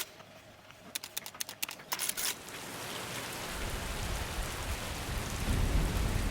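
Rain: a few sharp scattered drop ticks, then, about two seconds in, a steady rain hiss sets in and grows louder, with a low rumble building underneath.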